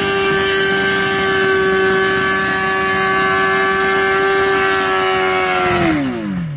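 Motorcycle engine held at a steady high rev, a loud even tone, then dropping sharply in pitch for about the last second before cutting off.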